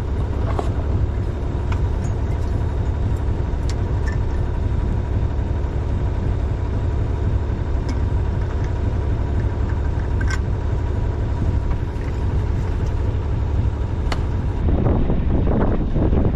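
A sailing yacht's engine chugging steadily under way at an even speed in calm water.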